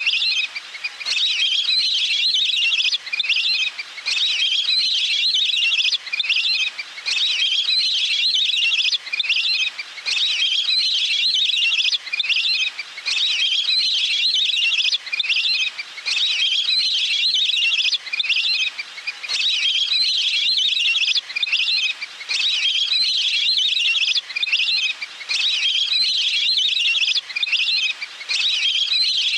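Recorded water-bird calls played as a lure: bursts of high, rapid chirping, repeated in phrases about every two seconds with brief gaps between them.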